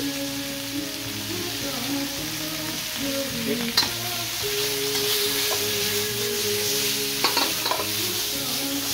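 Food sizzling as it fries in a hot pan while being stirred, with two sharp clicks of the utensil against the pan, about four and seven seconds in.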